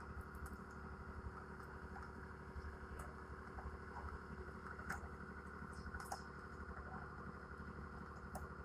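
Faint, steady machine hum with a few light clicks about three, five and six seconds in.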